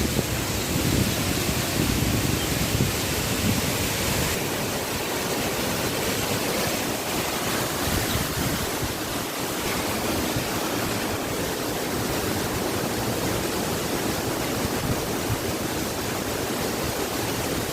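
Natural waterfall: a steady, dense rush of falling water.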